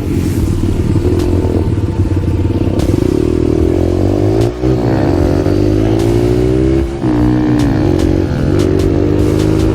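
Small pit bike engine running under way, its pitch rising and falling as the throttle is worked, with brief drops about four and a half and seven seconds in.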